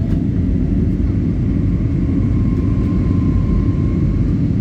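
Airliner cabin noise after takeoff: the engines and airflow make a steady, loud, low rumble, with a faint whine in the middle.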